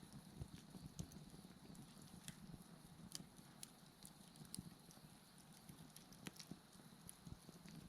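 Wood bonfire crackling faintly, with scattered sharp pops and snaps at irregular moments over a low flicker of burning. Behind it, a steady high chirring of insects.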